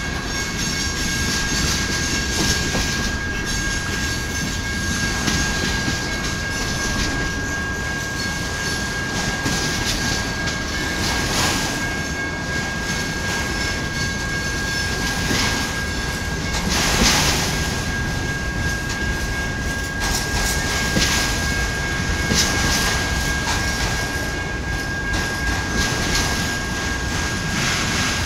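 Freight cars (boxcars and autoracks) rolling slowly past close by, a steady rumble of wheels on rail with scattered clanks as the wheels cross the diamond. A thin, steady high-pitched tone runs through it, with the loudest knock about two-thirds of the way in.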